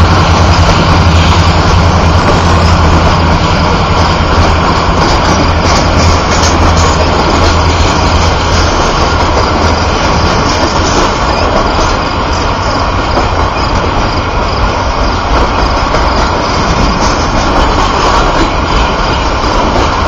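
Train of Triple Crown RoadRailer trailers rolling past close by: a steady rumble and rattle of steel wheels on rail, with scattered clicks. A low hum underneath fades away over the first several seconds.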